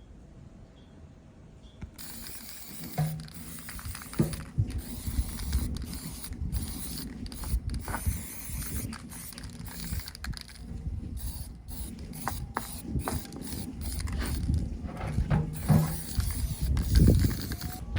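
Irregular mechanical clicking and rattling of hand-worked metal parts or tools, starting about two seconds in and going on densely.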